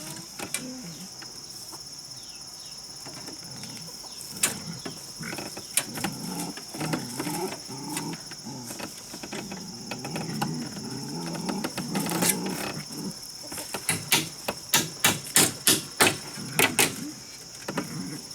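Steady high-pitched insect drone, with a quick run of sharp knocks, about three a second, near the end and a single knock earlier.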